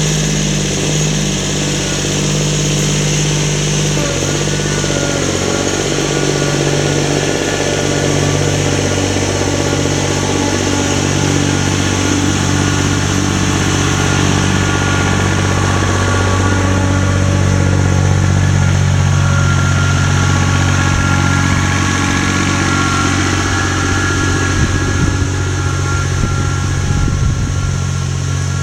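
A motor running steadily and loudly, with a small change in pitch about four seconds in.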